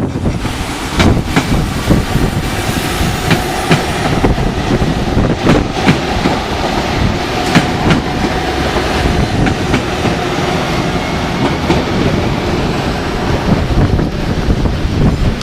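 A train passing close by, its wheels clattering over the rail joints in a run of sharp clicks over steady rolling rumble.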